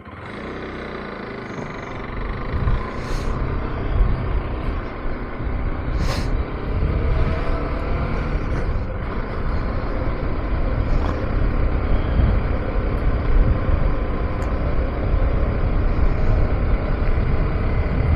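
KTM 390 Adventure's single-cylinder engine pulling away and riding on, with rumbling wind and road noise that grows louder over the first few seconds.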